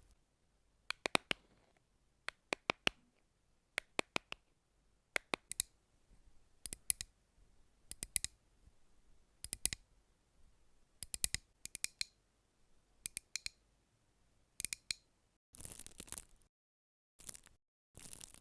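Rhythmic tapping: clusters of two to four sharp taps repeating about every second and a half, followed near the end by three short scratchy bursts.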